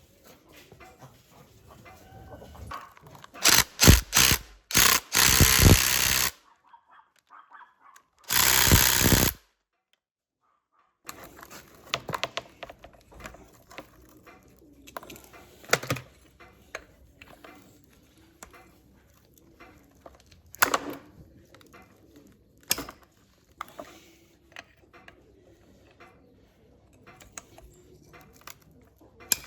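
Workshop sounds: a few loud bursts of hissing noise a few seconds in, then a longer one-second burst, followed by scattered clicks and knocks of tools and parts being handled.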